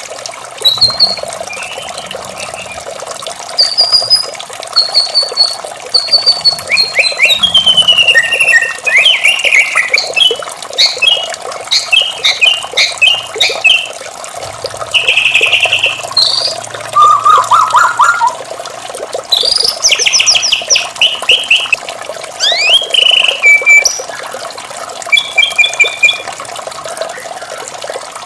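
White-rumped shama (murai batu) singing a varied song of clear whistled phrases and fast chattering trills, in short bursts with pauses, over a steady rush of running water.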